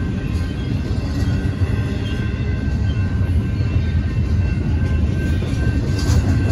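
Double-stack intermodal train's well cars rolling through a grade crossing: a loud, steady low rumble of steel wheels on rail, with steady high ringing tones over it and a few wheel clicks near the end.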